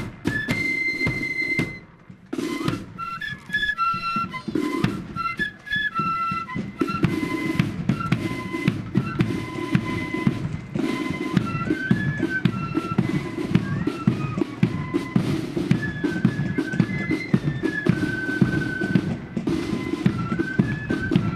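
Marching flute band playing a tune: flutes carry a high melody over steady bass and snare drum beats, with a short break about two seconds in.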